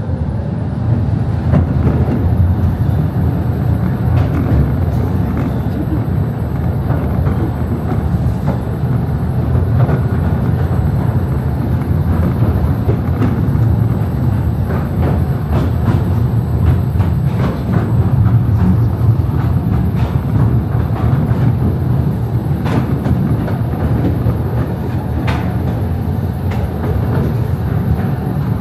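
Small narrow-gauge Mail Rail train running through its underground tunnel: a steady low rumble of wheels on rail, with frequent irregular clicks and clacks.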